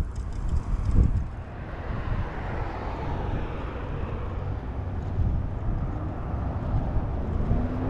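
Steady rumble of passing road traffic, with wind buffeting the microphone in a couple of low thumps near the start and an engine tone beginning to rise near the end.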